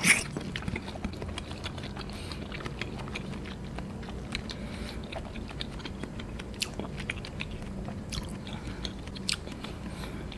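A bite into a soft block of banana-milk agar-agar jelly at the start, then mouth-close chewing of it with many small clicks.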